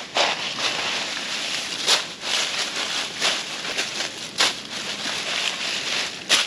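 Rustling and crinkling handling noise, broken by three sharp clicks.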